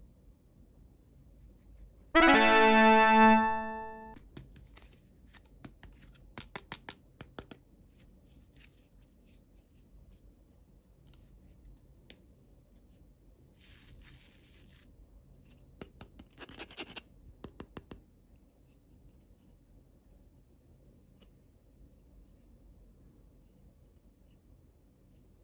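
A single loud piano-like chime about two seconds in, ringing for about a second and then fading. After it come faint clicks of small plastic toy pieces and packaging being handled, in small clusters, with two short rustles of wrapping.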